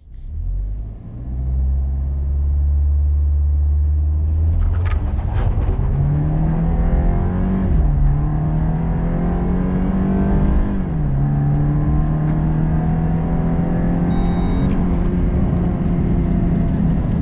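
2024 BMW 318i's 2.0-litre four-cylinder turbo petrol engine pulling at full throttle in a 0-100 km/h run, its note rising and dropping back twice as the 8-speed automatic upshifts. A brief high tone sounds near the end.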